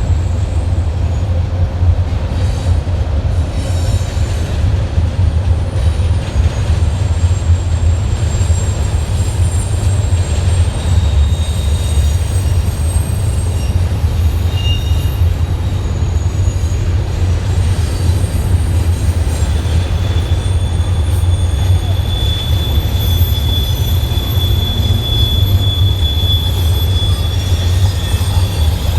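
Freight train rolling past with a steady, loud low rumble from its cars, and a faint high-pitched wheel squeal that comes and goes.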